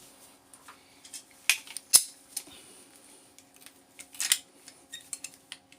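Scattered clicks and clinks of small metal and plastic parts being pried loose and handled while a power adapter is taken apart for scrap. The sharpest snap comes about two seconds in, with another short rattle about four seconds in.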